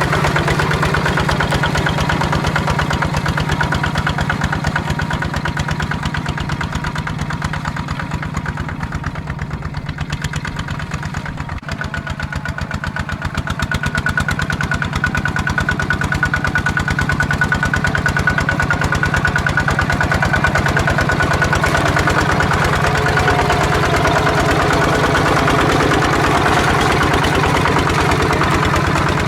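Tractor engine running steadily with a rapid even chugging, easing slightly about a third of the way in and then picking up again.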